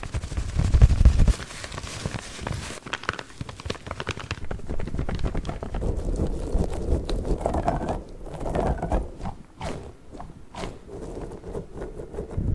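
Close-miked ASMR handling sounds: rapid tapping, scratching and crinkling of objects, with a heavier low rumble near the start and a few short squeaks in the middle.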